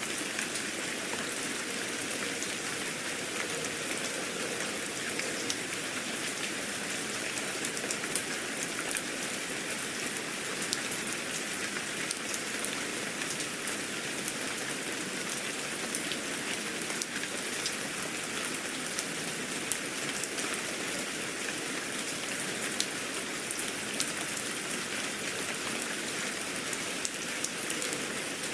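Steady rain falling on a surface, with many small drop ticks standing out over an even hiss.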